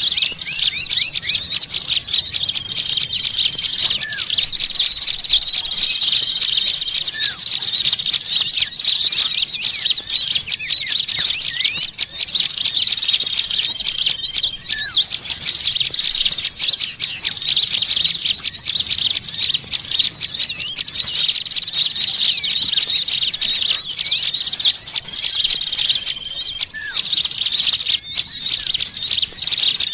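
A dense, continuous chatter of many small birds chirping and calling all at once, high-pitched and unbroken, with a longer, steadier note now and then. This is a bird-catching lure recording (suara pikat) of small birds in an uproar.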